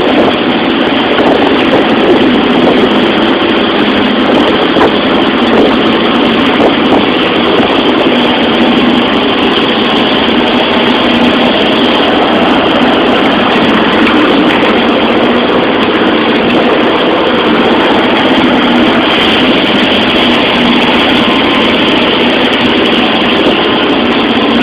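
Boat engine running steadily, a loud constant noise that does not rise or fall.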